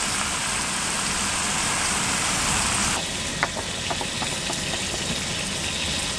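Beef steak sizzling on a hot griddle: a steady frying hiss over a low rumble. About three seconds in it drops suddenly to a quieter sizzle with small crackling pops.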